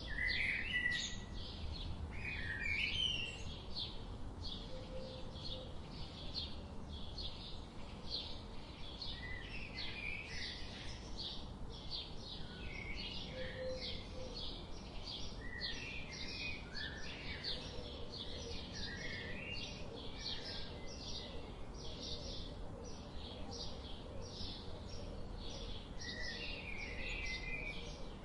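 Songbirds singing in woodland. A steady run of short, high chirps repeats about twice a second, with other birds' gliding, warbled phrases dropping in between. A low, even background rush lies beneath.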